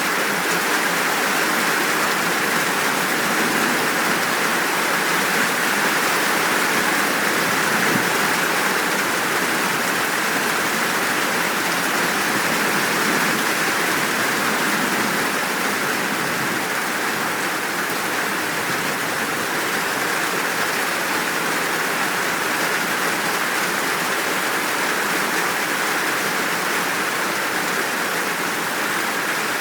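Steady downpour of rain, an even continuous hiss with no thunder or breaks.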